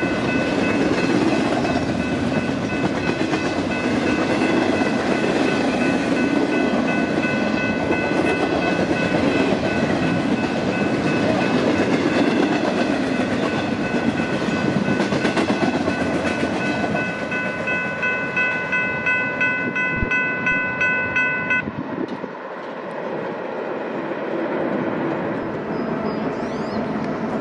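Long double-stack container freight train rolling past close by: a dense rumble of cars on the rails with a steady high whine held over it, and a regular clatter of wheels over rail joints near the end. About two-thirds of the way through it cuts abruptly to a quieter, more distant train.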